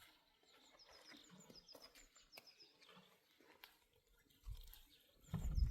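Small birds chirping: quick series of short, high, downward-hooked chirps, with faint clicks between. Near the end there is a brief low rumble, louder than the chirps.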